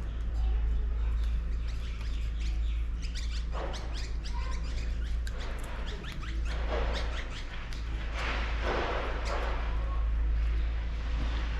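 A dog gnawing on a wooden chair: quick small clicks and crunches, with several short scraping bursts in the second half, over a steady low hum.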